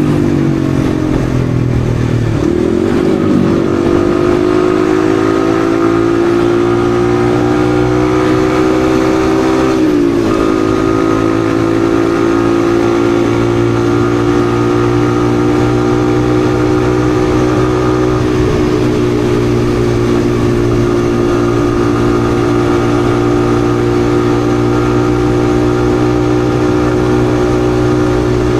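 Yamaha XSR155's single-cylinder engine under way: the revs fall and pick up again about two seconds in, climb steadily through the gear, drop sharply in a quick upshift about ten seconds in, then hold steady at cruising speed.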